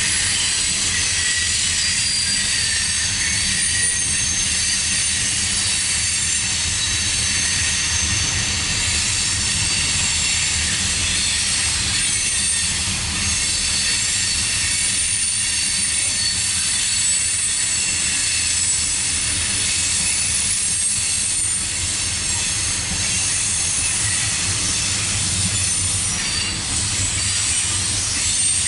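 Cars of a loaded CSX coal train rolling steadily past: a continuous low rumble of the wheels on the track, with high-pitched squealing from the steel wheels over it.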